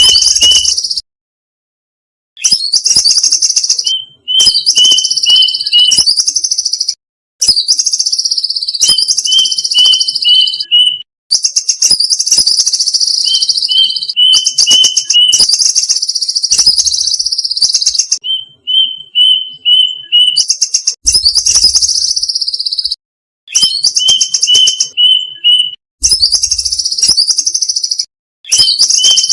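Violet cuckoo calling, played as a bird-lure recording: groups of four or five short, sharp high notes each followed by a long, high trill that falls in pitch, repeated over and over. Each phrase stops abruptly into dead silence, as in an edited loop.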